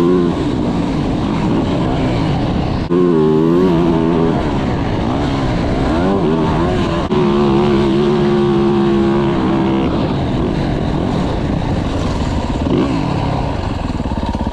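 A four-stroke motocross bike engine, a 2024 Yamaha YZ450F, being ridden hard: the revs climb and drop repeatedly as it accelerates and shifts. The sound changes abruptly about 3 and 7 seconds in.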